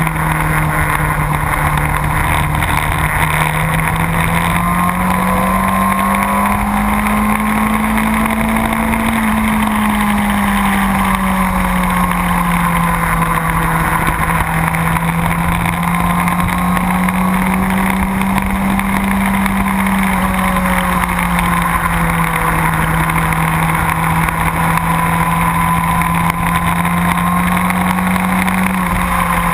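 Motorcycle engine running steadily at speed, its pitch rising and falling slowly as the throttle changes, over a constant rush of wind noise.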